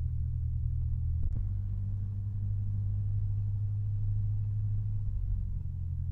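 Cessna 172's piston engine running steadily while taxiing after landing, heard from inside the cockpit through a mic in the pilot's ear as a muffled low drone. A faint click about a second in.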